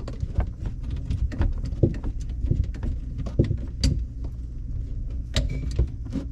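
Scattered clicks and knocks of reverse-osmosis hoses and fittings being handled under a kitchen sink, over a steady low hum.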